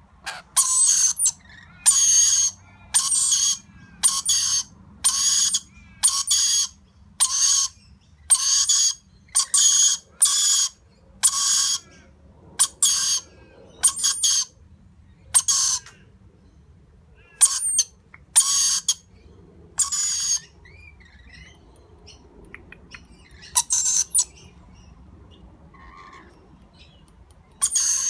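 Rainbow lorikeets giving a run of short harsh calls, about one a second, thinning to a few spaced calls in the second half, as a young bird is being fed.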